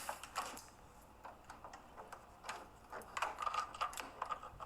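A series of light, irregular clicks and taps, typical of someone moving about and handling things on the way to close a door.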